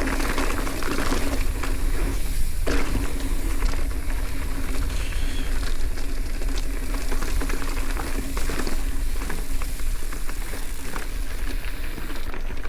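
Bicycle ride noise: tyres running over a rough dirt trail with constant small rattles and ticks, and wind rumbling on the camera microphone.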